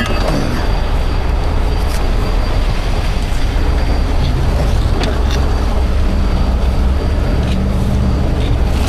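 Steady low rumble of heavy vehicles: a running diesel engine and roadway traffic, with a few faint clicks and knocks.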